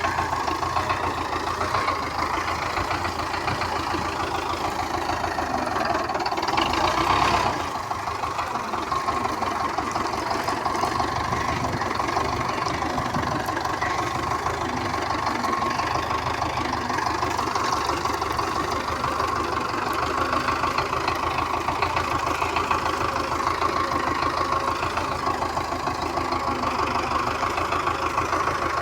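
Diesel engine of a Russi (Belarus) tractor running steadily, rising louder briefly about six seconds in and dropping back about two seconds later.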